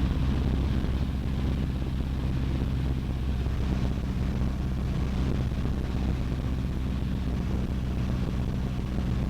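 Cessna 152's four-cylinder Lycoming O-235 engine and propeller droning steadily in the cockpit in flight.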